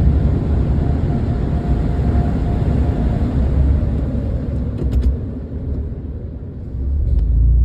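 Automatic car wash air dryer blowers, a loud rushing rumble of air buffeting the microphone; it eases off about five and a half seconds in and swells again near the end.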